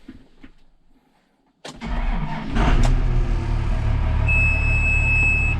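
A few faint clicks, then a farm machine's engine cranks briefly, catches about two seconds in and settles into a steady idle. A steady high warning beep sounds for about a second near the end.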